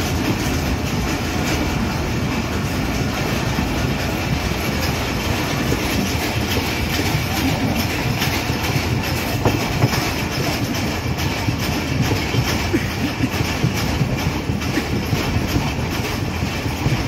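Passenger train running at speed, heard from on board: a steady rumble of wheels on the track with a light clickety-clack over the rail joints.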